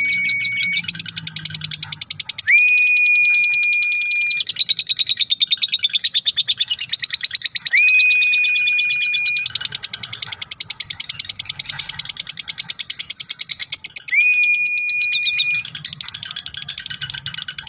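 Lovebird 'ngekek': a long, continuous, rapid chattering trill in phrases several seconds long, the extended-duration song used as masteran (training) audio for lovebirds. A clear steady whistled note sounds over it every few seconds.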